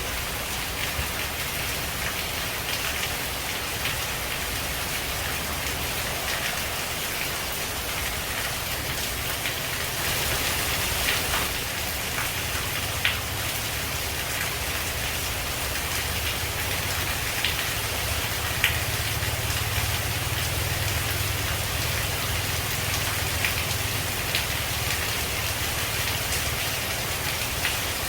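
Steady heavy rain falling on leaves, a dense even hiss with scattered sharper drops; it grows slightly heavier about ten seconds in.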